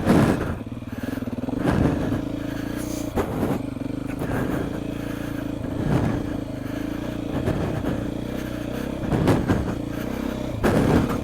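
Beta 390 RR single-cylinder four-stroke dirt bike engine running at low trail speed, with short surges in level every second or two.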